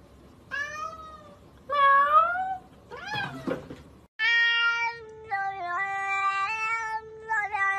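A cat meows twice, each meow rising then falling, followed by a shorter, lower falling cry. Then a long series of cat yowls held on level notes that jump up and down in steps, edited into a rap-like tune.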